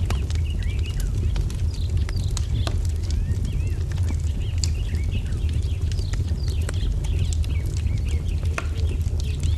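Wood fire crackling with scattered sharp pops over a steady low rumble, while small birds chirp in quick repeated phrases.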